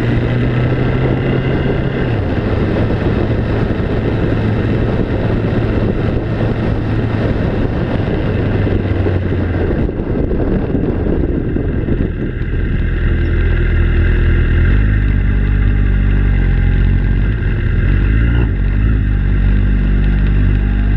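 A vehicle engine running with a steady drone and a rushing noise. About halfway through the rushing drops back and the engine's low tones become stronger, shifting pitch in steps every couple of seconds.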